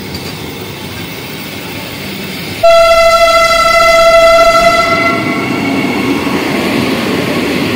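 Vande Bharat express train running through the platform at speed, its wheels and passing coaches making a steady rushing noise. About two and a half seconds in, a train horn blows one loud, steady blast of a little over two seconds, and the rushing goes on beneath it.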